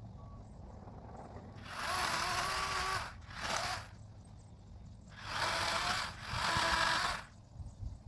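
Battery-powered chain saw run in four short bursts, two longer and two shorter, with quiet gaps between and no engine idling in between.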